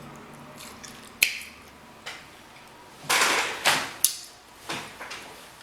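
Close-miked eating of boiled king crab legs: a few sharp clicks and cracks of crab shell, and wet smacking bursts from mouth and fingers.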